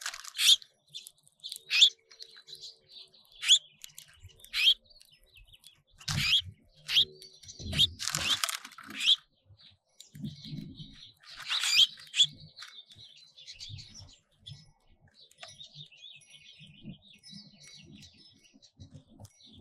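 Small songbirds at feeders chirping: sharp, separate chirps every second or so, giving way in the second half to softer, steady twittering. A few low thuds come in the middle.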